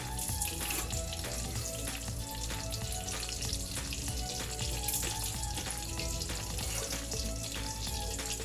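Chicken burger patties frying, a steady sizzle with fine crackling throughout. Faint music plays underneath.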